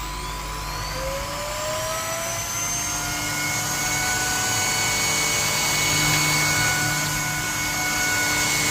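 Handheld mattress vacuum cleaner switching on: its motor spins up with a whine rising in pitch over the first few seconds, then runs steadily at full speed while it vacuums a couch.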